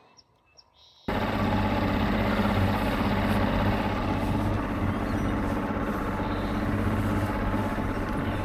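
Boat's outboard motor running steadily under way, with rushing wind and water noise over it. It cuts in suddenly about a second in, after near silence.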